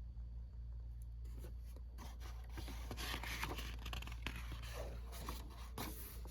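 Paper rustling and scraping as the pages of a picture book are handled and turned, with scattered light clicks, starting about a second in and stopping shortly before the end.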